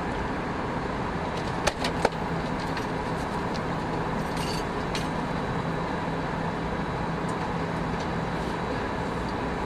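Airbus A319 cabin noise in flight: a steady rushing of air and engine drone at the front of the cabin. Three sharp clicks come close together about two seconds in.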